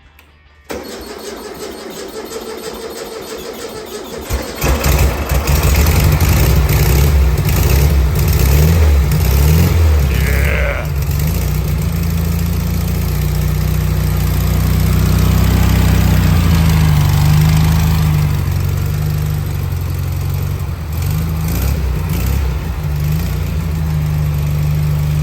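1973 VW Beetle's air-cooled flat-four engine, fitted with an EMPI two-tip exhaust, cranking for about four seconds before it catches, then running loud with a deep tone and revving up and down a few times.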